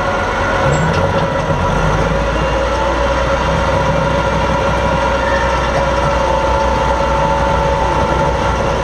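Super stock pulling tractor engine running loud and steady, with several high whining tones held over a deep rumble.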